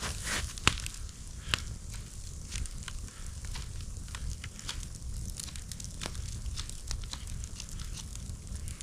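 Campfire crackling, with scattered sharp pops from the burning wood; two louder pops come in the first second and a half.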